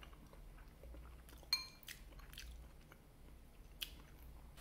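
Quiet chewing of a mouthful of food, with a single ringing clink of a metal fork against a dish about a second and a half in and a fainter tick near the end.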